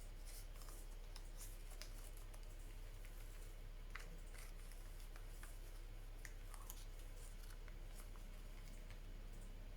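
Faint rustles and light ticks of paper pages being handled and turned in a small handmade envelope journal, over a steady low hum.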